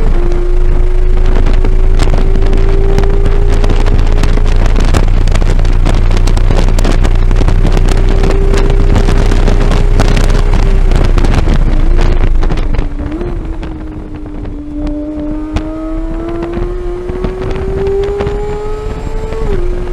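2015 Porsche 911 GT3's flat-six engine at full throttle on track, pulling up through the revs after a gearshift. About two-thirds of the way through it eases off with two short rev blips and goes quieter, then climbs again to another upshift near the end. Wind buffets the microphone throughout.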